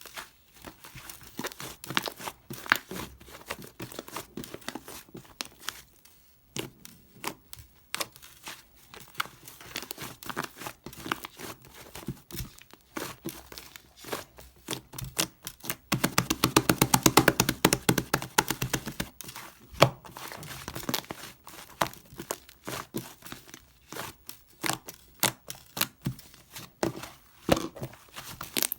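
White, fluffy, sticky slime being squished and stretched by hand, making scattered sticky pops and crackles. About halfway through there is a fast run of rapid popping lasting a few seconds, the loudest part.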